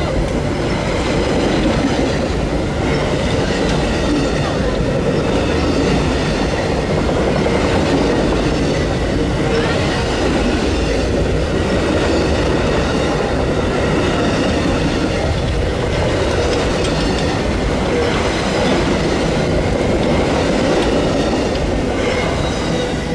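Amtrak Auto Train's tall autorack cars rolling past, a loud, steady noise of steel wheels running on the rails. The noise begins to fall away at the very end as the last car goes by.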